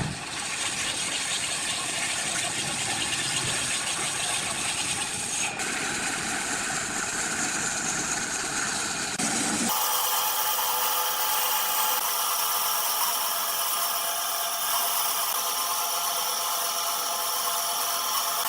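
Power tools working wood, running continuously; about ten seconds in the sound changes abruptly, losing its low rumble and settling into a steady, higher whine.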